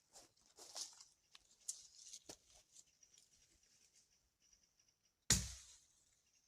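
Scattered rustling and crackling, with one loud thump about five seconds in, over a faint steady high-pitched hiss.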